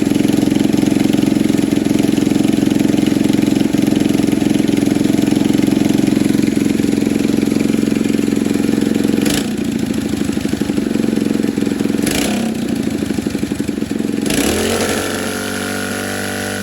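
Predator 212 single-cylinder engine on a mini bike idling steadily on a freshly fitted 115 main jet. Over the last third its note changes several times, with the pitch falling and settling a couple of seconds before the end.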